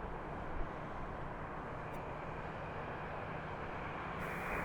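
Steady low background rumble and hiss with no distinct event.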